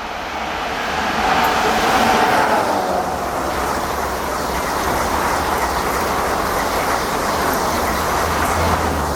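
Passenger train passing at speed: an EP09 electric locomotive and a set of articulated Talgo coaches rushing by. The steady rush of wheels on rail builds over the first two seconds, stays loud, and eases off near the end.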